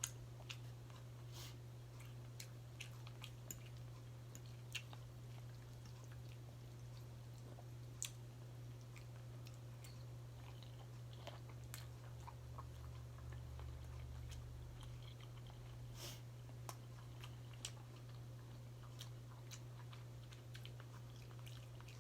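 Close-up eating sounds of a person chewing, with scattered faint wet clicks and lip smacks, over a steady low hum.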